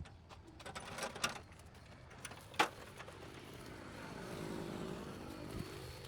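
A road vehicle passes by, its sound swelling and then fading over the second half. Before it, a few sharp knocks, the loudest about two and a half seconds in.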